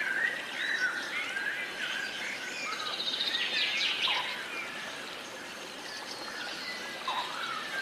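A chorus of several songbirds chirping and singing over a steady background hiss, with a quick rapid trill about three seconds in.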